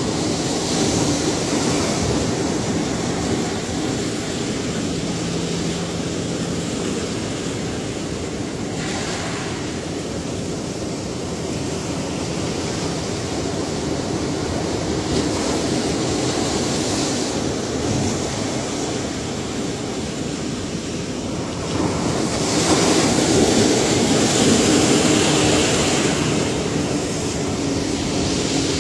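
Ocean surf: a continuous wash of breaking waves that swells and eases, with a louder wave breaking about two-thirds of the way through.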